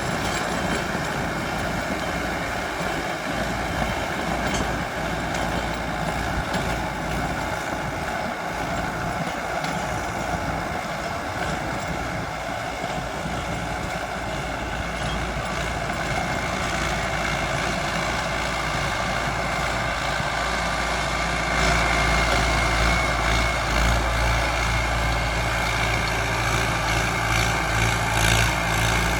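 Mahindra Arjun 605 DI 4WD tractor's diesel engine running steadily while pulling a Shaktiman rotavator. About two-thirds of the way through it grows louder and deeper.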